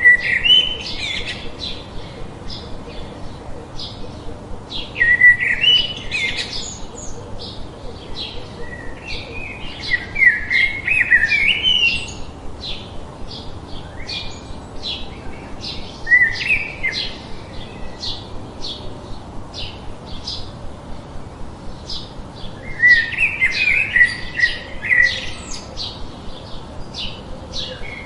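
Birdsong: a steady run of short, high chirps about twice a second, with louder warbling phrases of a second or two breaking in every five or six seconds.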